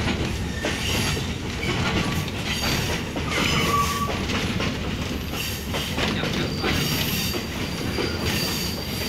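Passenger train running along the track, heard from inside the carriage: a steady rumble and rattle of wheels on rails with irregular knocks at the rail joints. A thin high wheel squeal comes in during the second half.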